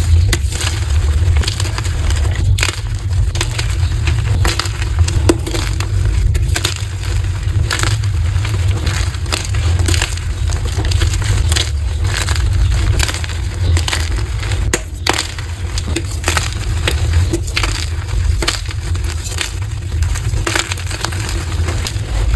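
Blocks of gym chalk being crushed and crumbling, a dense, continuous run of crunches and crackles, sped up to double speed.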